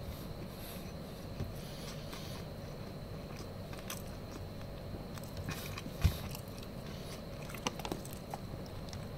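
A person chewing a mouthful of Balinese roast pork and rice close to the microphone, with small wet clicks and faint crunches. There is a soft thump about six seconds in.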